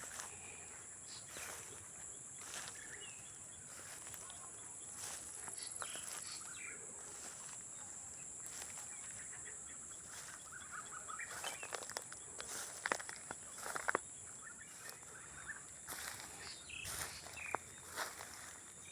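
Night-style nature ambience: a steady, high-pitched insect trill from crickets runs throughout, with scattered short bird chirps and frequent sharp clicking calls, a few louder ones in the second half.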